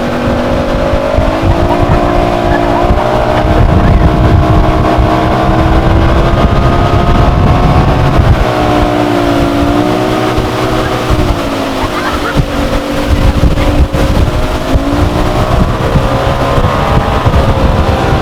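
Motorboat engine running under way, its note rising and falling several times as the throttle changes, over a heavy low rumble.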